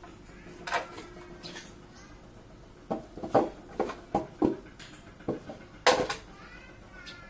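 Irregular sharp knocks and clatters of wooden pieces being handled, a cluster of them about three to four and a half seconds in and a loud one near six seconds, with faint bird chirps.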